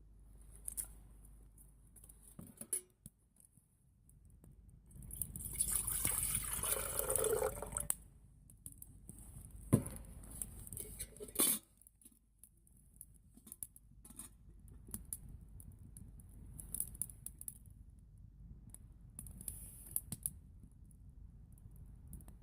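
Liquid pouring for about three seconds, with scattered clinks and knocks of cookware and a couple of sharper knocks afterwards.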